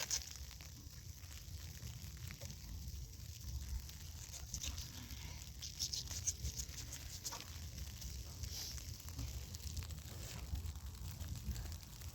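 Wind buffeting the microphone in a blizzard, a constant low rumble, with scattered crackly patter over it.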